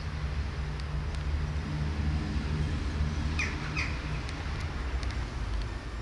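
Two short bird calls a little past the middle, over a steady low hum.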